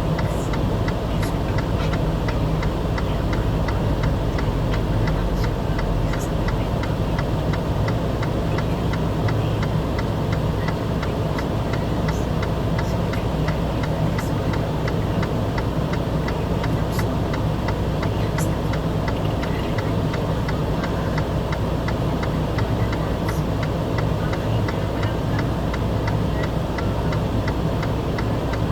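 An engine running steadily with a fast, even ticking clatter, and a few sharp clicks now and then.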